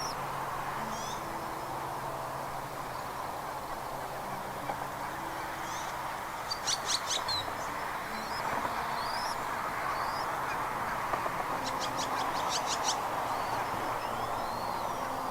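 Wild birds calling at a nest: scattered high chirps, with two quick runs of sharp chirps about a third of the way in and again near the end, over a steady outdoor hiss.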